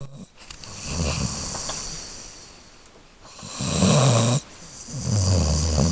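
A laika hunting dog snoring in deep sleep, worn out after a long run: three slow, low rattling snores about two seconds apart, the middle one loudest and ending abruptly.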